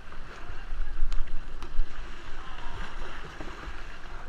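Kayak paddles splashing and churning water, with wind rumbling on the microphone and two sharp knocks about a second in.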